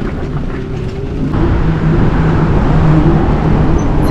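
Riding on a Zero electric motorcycle: wind rushing over the microphone and road noise, getting louder about a second in as the bike picks up speed, with a steady low hum underneath.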